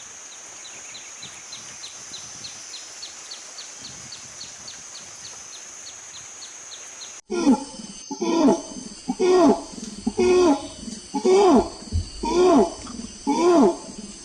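Animal sounds: first a steady high hiss with a fast, even ticking, about five ticks a second. Then, about seven seconds in, a different animal calls loudly over and over, about once every 0.7 s, each call falling in pitch.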